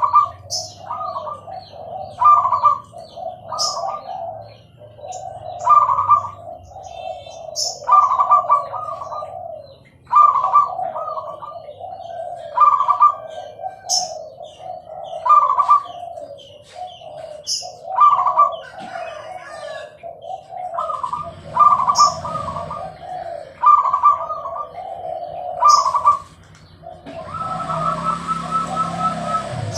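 Zebra doves (perkutut) cooing: phrases of quick, clipped coo notes repeated about every two seconds. In the last few seconds a steady hiss with a low hum comes in under the calls.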